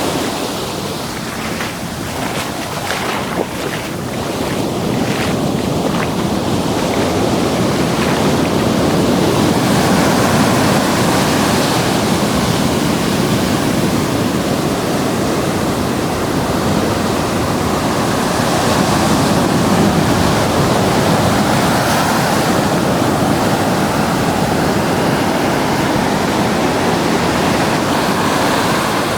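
Ocean surf washing up the beach, the wash swelling and easing as waves come in, with wind on the microphone. A handful of short splashes near the start.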